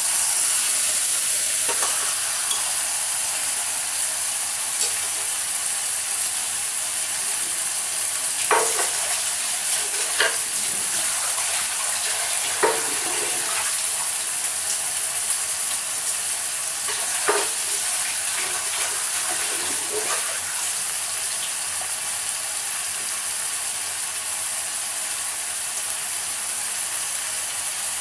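Raw chicken pieces frying in hot oil with fried onions, with a steady sizzle. The pan is stirred now and then, giving about five short scrapes through the middle.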